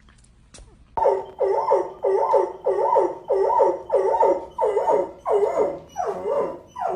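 A dog barking over and over in an even rhythm, about two barks a second, starting about a second in.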